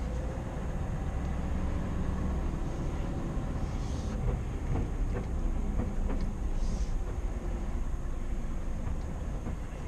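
Scania R520's V8 diesel engine and road noise as the truck drives along: a steady low rumble, with two brief hissing swishes about four and seven seconds in.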